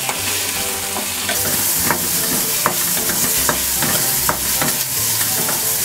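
Onion, tomato and green chillies sizzling in oil in a metal kadai while a wooden spatula stirs them, knocking and scraping against the pan about two to three times a second. The sizzle grows louder about a second in. The vegetables are frying until the tomatoes soften.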